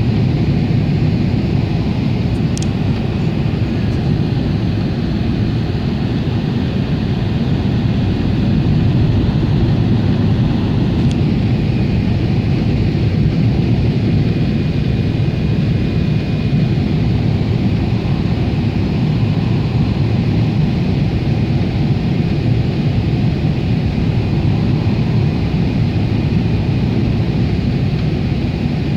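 Steady cabin roar of a Boeing 777 airliner in flight, the deep rush of engines and airflow, with a faint high steady whine over it and a couple of faint ticks.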